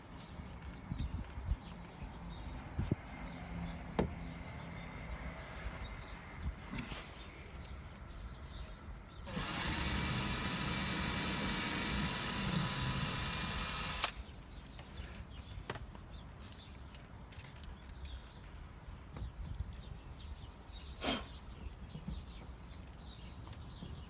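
Power drill running steadily for about five seconds, starting about nine seconds in and stopping suddenly, as a screw is driven through the caravan's outer skin into a new wooden batten. Scattered light knocks and taps come before and after.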